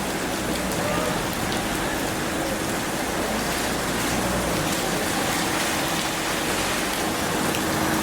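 Steady rain falling, an even hiss with a faint steady low hum underneath.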